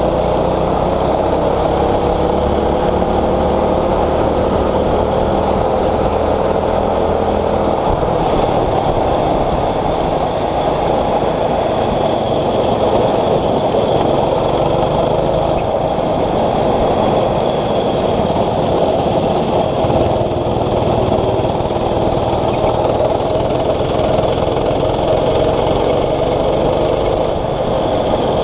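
6.5 hp rental kart engine running steadily under way, its pitch drifting gently up and down.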